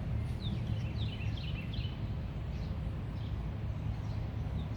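Small birds chirping: a cluster of quick falling chirps in the first two seconds, over a steady low background rumble.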